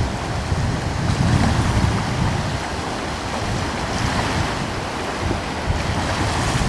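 Ocean waves washing gently with a steady surf rush that swells and eases, over a light coastal wind buffeting the microphone with a low rumble.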